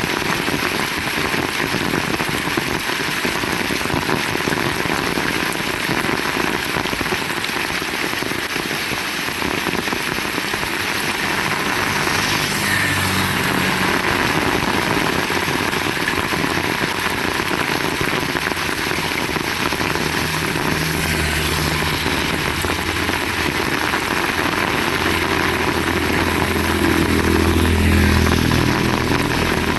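Heavy rain pouring steadily. A low rumble rises briefly about twelve seconds in, then builds again in the second half and is loudest near the end.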